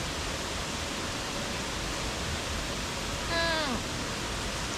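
Steady rushing of a waterfall. About three and a half seconds in, a person gives one short vocal sound that falls in pitch.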